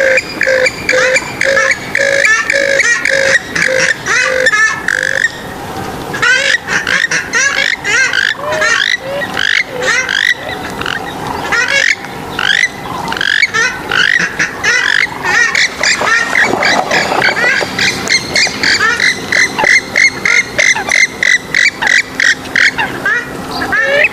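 Swamphens and moorhens calling: a continuous run of rapid repeated notes. The calls overlap and change pattern about six seconds in and again near sixteen seconds.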